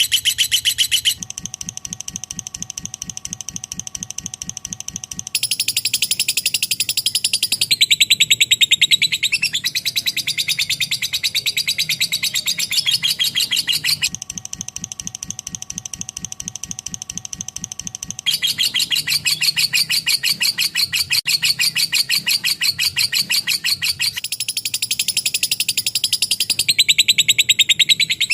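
Lovebird chattering in a long, unbroken 'ngekek': a rapid, high-pitched trill of pulses that runs on without a pause. It goes quieter and lower twice, about a second in and again around the middle, then returns to full strength.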